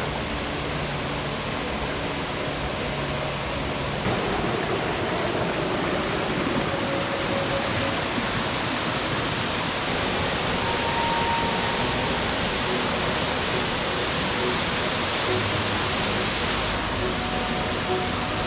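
Steady rush of a waterfall's falling water. The level shifts slightly about four seconds in and again twice later.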